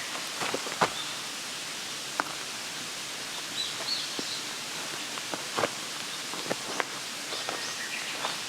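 Outdoor woodland ambience: a steady hiss with scattered small knocks and rustles from gear being handled, and a few faint bird chirps about halfway through and again near the end.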